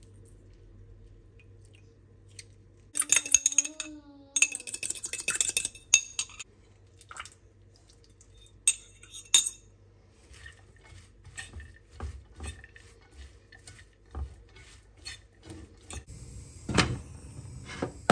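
Cutlery and dishes clinking and clattering, with a dense burst of ringing clatter about three seconds in, then scattered taps and knocks that grow louder near the end.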